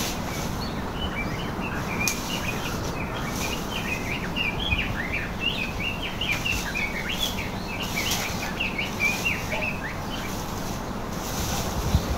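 Small birds chirping in a rapid, chattering run of short high notes that thins out after about ten seconds, over a steady background hiss, with a few brief rustling noises.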